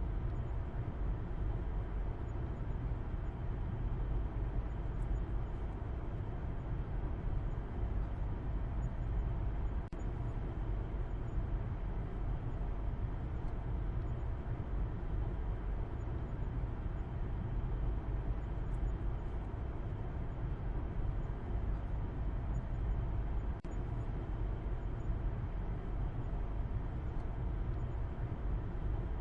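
A car driving at a steady speed: a continuous, even low rumble of road and engine noise that does not change.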